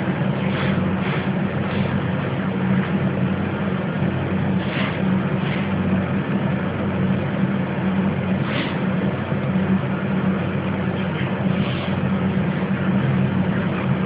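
A steady low machine hum runs throughout. Over it come a few brief high chirps from pet budgies (budgerigars), spaced irregularly a second or several apart.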